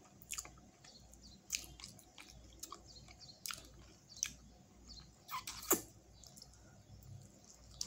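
Close-up mouth sounds of a person eating a sauce-covered chicken wing: chewing with a scatter of short smacking clicks, the loudest a little past halfway.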